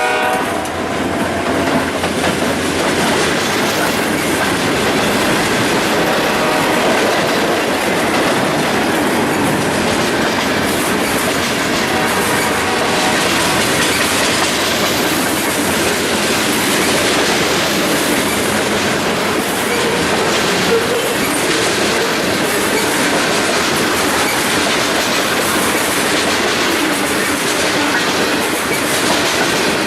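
Freight train of a long mixed consist rolling past close by: a steady, loud rumble of wheels on rail, with a rhythmic clickety-clack of wheel sets passing over rail joints that grows more distinct from about ten seconds in.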